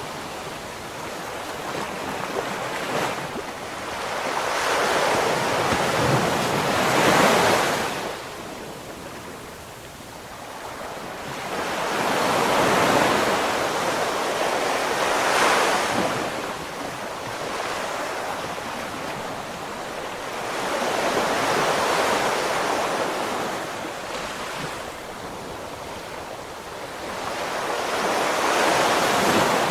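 Ocean waves breaking on the shore, the surf swelling and falling back about every six to eight seconds, with some wind on the microphone.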